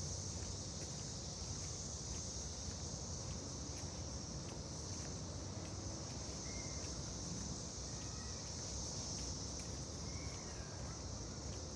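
Steady high-pitched buzz of an insect chorus in the woods, with faint footsteps on the trail as light irregular ticks and a few brief faint chirps in the middle.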